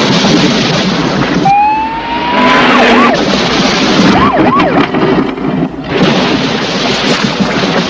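Cars speeding in a chase, engines running hard under dense road noise. A squeal rises about a second and a half in, followed by several short tyre squeals around three and four and a half seconds in.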